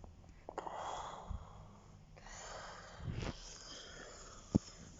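A person breathing out close to the microphone, two soft breaths, with a few small clicks and one sharp knock near the end.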